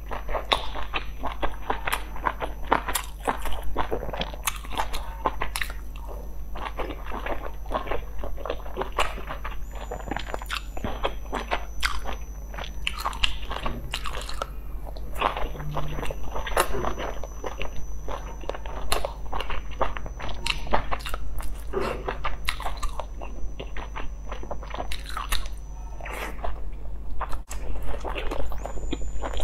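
Close-up mouth sounds of a person biting and chewing large steamed dumplings: a dense, continuous run of small clicks and smacks, over a steady low hum.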